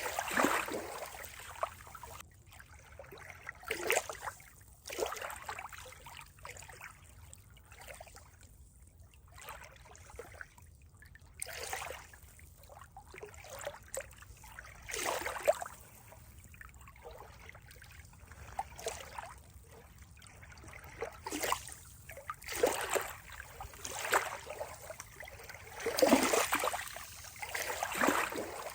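Water splashing and gurgling in irregular swells, each about a second long, with the strongest near the end.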